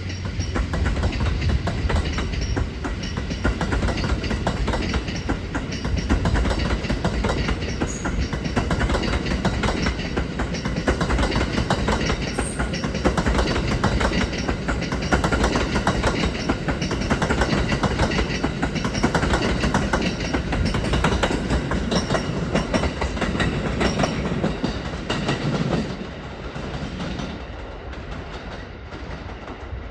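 Cars of a departing train rolling past, wheels clattering rapidly over rail joints with a low rumble. Near the end the sound drops and thins as the train draws away.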